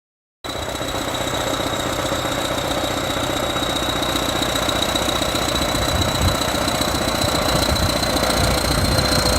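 Heavy-equipment diesel engine running steadily with a clattering knock, cutting in abruptly about half a second in, over a thin high whine that creeps slightly upward in pitch.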